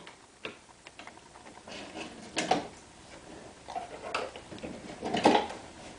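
A dog chewing a birthday card: irregular soft clicks and crunches, with a few louder ones about two and a half, four and five seconds in.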